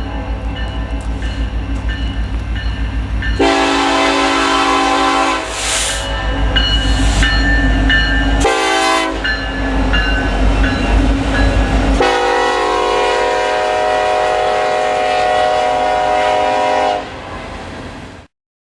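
Diesel freight locomotive rumbling past while its air horn sounds the grade-crossing signal: two long blasts, a short one, then a long final blast whose pitch drops as the locomotive passes. The sound cuts off abruptly near the end.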